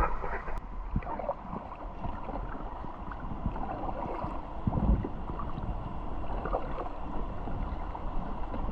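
Packraft being paddled down a fast river: rushing water and paddle strokes splashing, with a few dull low thumps, the loudest about five seconds in.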